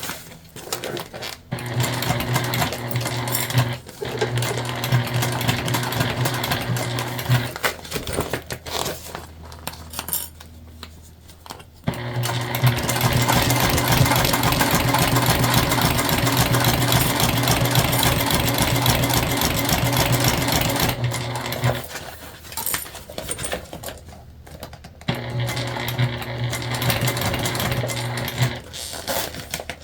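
Sewing machine stitching bias-tape binding onto jelly vinyl in three runs, the middle one longest, stopping briefly between them.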